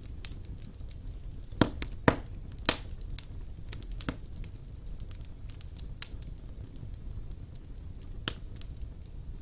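Wood fire burning in a fireplace: irregular sharp crackles and pops over a low, steady rumble of the flames. The loudest pops come in a cluster of three between about one and a half and three seconds in.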